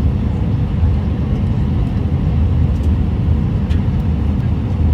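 Steady low rumble of an Airbus A319's engines and airflow, heard inside the passenger cabin.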